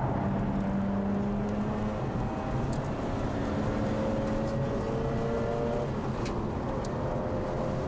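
Mazda RX-8's two-rotor rotary engine running under load at fairly steady revs, heard from inside the cabin over steady road and wind noise, with a few light ticks.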